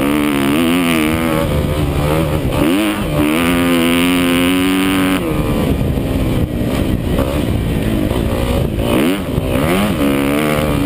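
Motocross bike engines racing on the track, revving up and dropping back again and again as riders shift and brake, with one engine held high for a couple of seconds before easing off about five seconds in.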